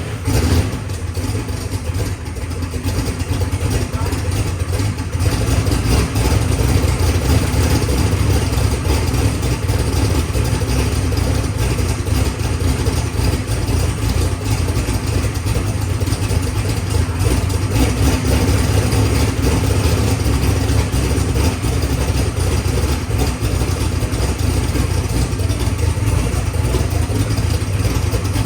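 Methanol-fuelled turbocharged drag-race car engine idling steadily on its first fire-up.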